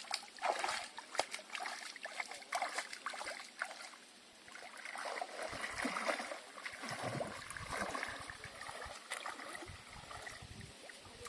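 Lake water splashing and lapping in small, irregular splashes, busier in the middle and easing off toward the end.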